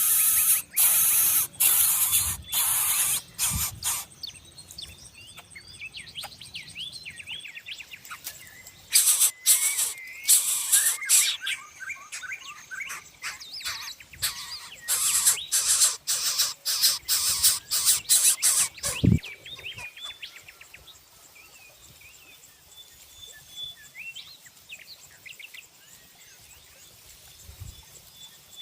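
Coucal nestlings making loud rasping hisses in rapid runs, in three spells: at the start, around nine seconds in, and around fifteen seconds in. Small birds chirp throughout, and the last third is quieter.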